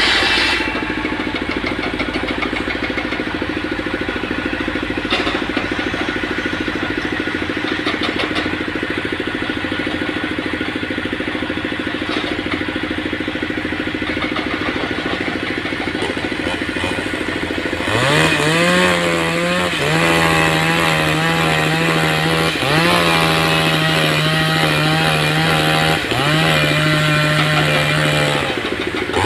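An engine running steadily, then revved about four times from a little past halfway, each time rising quickly in pitch and holding before it drops.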